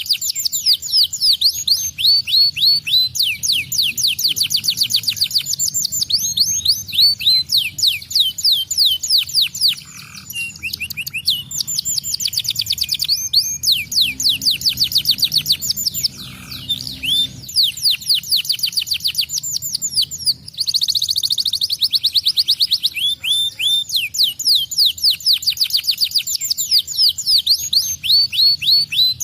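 Domestic canary singing a continuous, rapid song of high trills: fast series of quick downward-sweeping notes, with a few short pauses.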